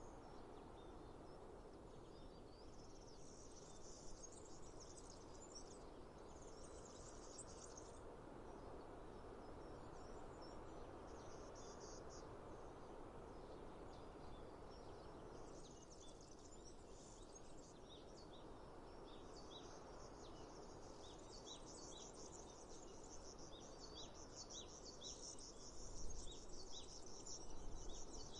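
Faint natural outdoor ambience: a steady soft rushing noise with insects trilling in bursts. In the second half a bird gives a run of short repeated chirps. A couple of low bumps come near the end.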